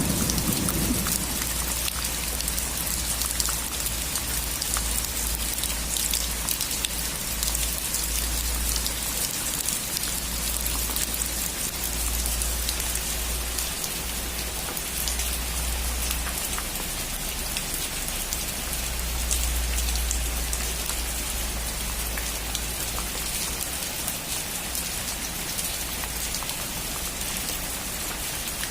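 Steady rain falling on a roof, a dense patter of many fine drops. The tail of a thunderclap dies away in the first second.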